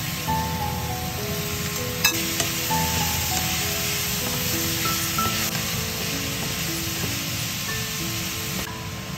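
Squid, green peppers and onions sizzling as they stir-fry in a non-stick pan, with a wooden spatula stirring through them and one sharp click about two seconds in. Background music plays throughout.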